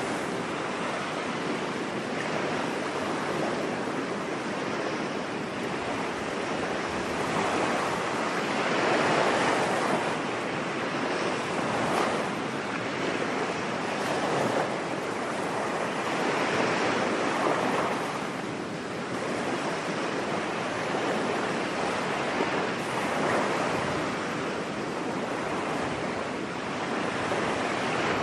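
Ocean waves washing onto a beach, a steady hiss of surf that swells and ebbs every few seconds.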